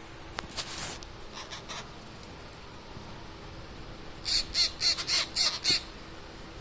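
Parrot chicks squawking: a quick run of about eight harsh, raspy calls about four seconds in.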